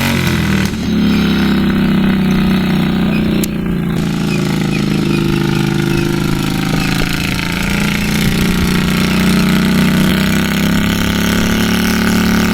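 A Craftsman riding mower's 22 horsepower Kohler Pro V-twin engine running hard and steadily, its pitch rising and falling a little as the revs change.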